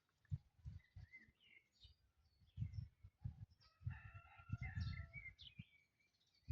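A rooster crowing once, faint, held for about a second some four seconds in, with small birds chirping. Low thumps and rumbles run underneath.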